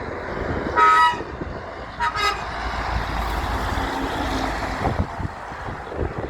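Big truck's horn: one short blast about a second in, then two quick toots, over the truck's engine rumble and road noise as it passes.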